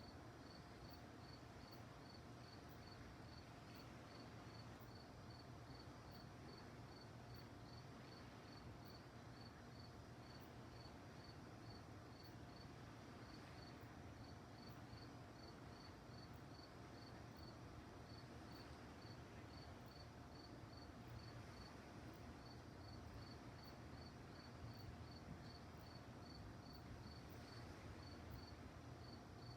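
Crickets chirping at night, faint and steady: a regular, high-pitched pulse of about three chirps a second that pauses briefly now and then, over a low background hiss.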